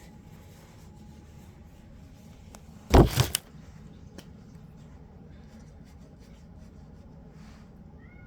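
Handling noise: one short, loud rub of clothing or hands against the recording phone about three seconds in, over a faint steady hum.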